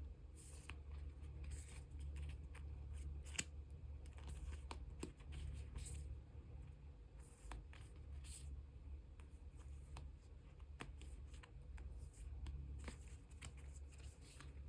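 Photocards and clear plastic card sleeves being handled: short scrapes, light rustling and small clicks at irregular moments as cards slide into sleeves, over a steady low hum.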